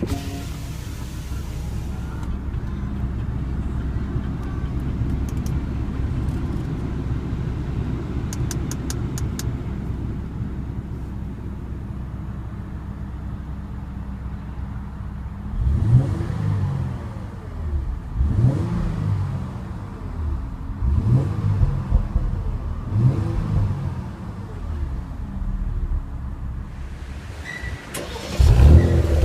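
2015 Porsche Cayenne S's 3.6-litre twin-turbo V6 starting up and settling into a steady idle. Past the halfway mark it is blipped four times in short rising revs, and near the end it is revved once more, harder and louder.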